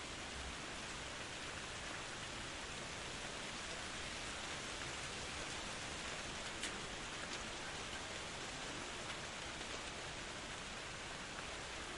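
Steady rain falling in a forest: an even hiss of rainfall with scattered sharper drops, and one louder drop about two-thirds of the way through.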